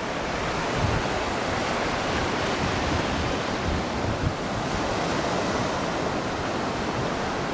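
Steady rushing of wind and sea, with wind buffeting the microphone in irregular low gusts.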